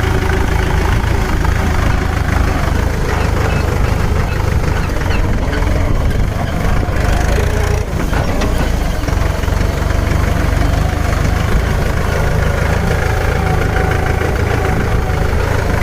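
Mahindra 595 Turbo tractor's diesel engine running steadily.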